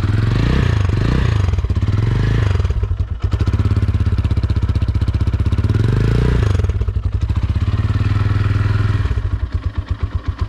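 Loncin GP motorcycle engine running in neutral just after starting: the throttle is blipped up and down a few times, held at higher revs for a few seconds, then let fall back to a pulsing idle near the end. It is run up so its sound can be judged when checking a second-hand bike's engine condition.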